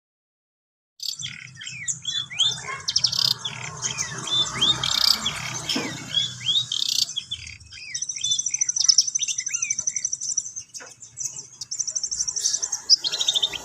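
Long-tailed shrike (cendet) singing a varied, rambling song of short whistled notes and fast buzzy trills, starting about a second in: a young bird practising its song.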